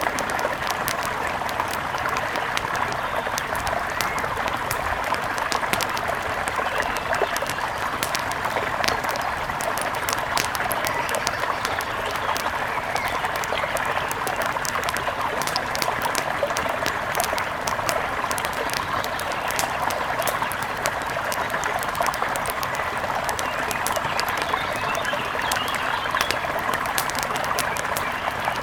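Steady rush of a mountain river, with many small sharp crackles scattered over it and faint bird calls.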